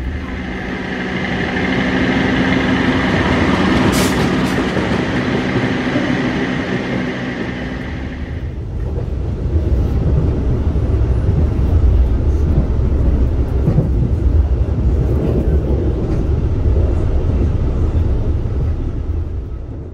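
Running noise inside a moving passenger train carriage: a steady rumble of wheels on rails, with a steady hum and a higher whine for the first eight seconds or so and a sharp click about four seconds in. After a sudden change the whine drops out and a heavier low rumble takes over.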